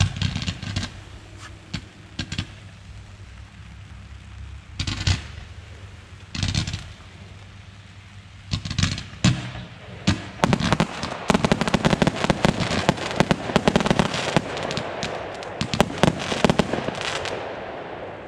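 Consumer fireworks going off. A few separate bangs come in the first seconds, then from about nine seconds a dense run of rapid sharp pops and crackle, which fades away near the end.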